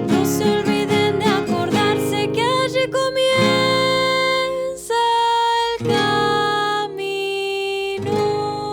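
Music: acoustic guitar with a voice singing without words, wavering at first, then a series of long held notes.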